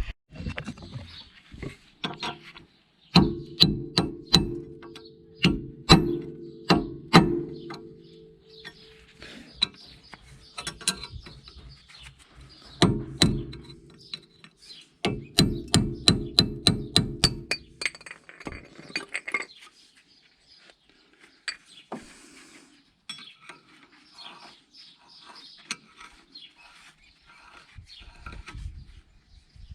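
Runs of sharp metallic clicks, several a second, in two bursts, from hand tools at work on a car's front wheel hub during a wheel bearing replacement, followed by quieter handling noises.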